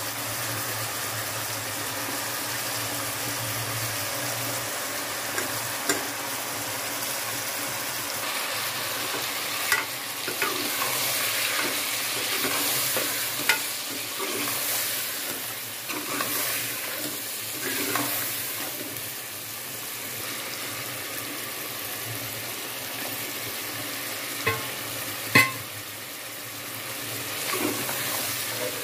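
Meat, tomatoes and spices sizzling in an aluminium pressure cooker as a steel spoon stirs them, giving a steady frying hiss. The spoon clinks sharply against the pot now and then, loudest about 25 seconds in.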